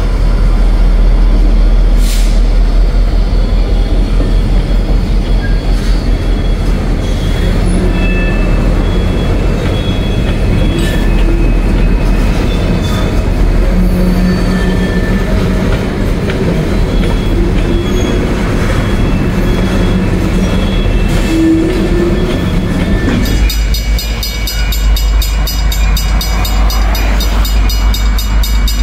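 BNSF GP50 diesel locomotive and covered hopper cars rolling slowly through a street crossing: a steady low rumble of the engine and wheels on the rails, with short high wheel squeals now and then. About 23 seconds in the sound changes to a grade crossing's mechanical bell ringing in a fast even rhythm.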